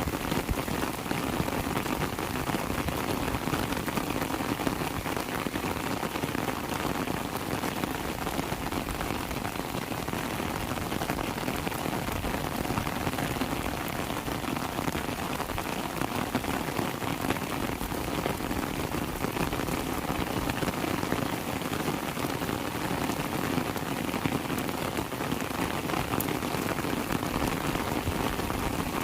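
Heavy rain falling steadily, a dense even downpour with many individual drops hitting surfaces.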